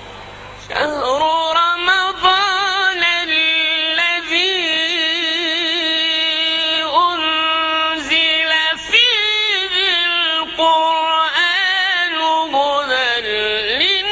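Quran recitation: a single reciter's voice holding long, ornamented melodic notes in the drawn-out tajwid style, beginning about a second in.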